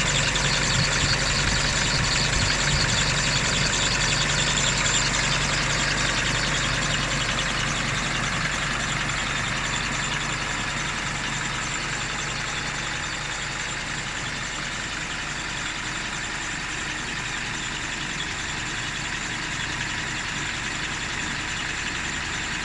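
Isuzu 4JK1 four-cylinder turbo diesel engine idling steadily, easing slightly quieter over the first half and then holding even.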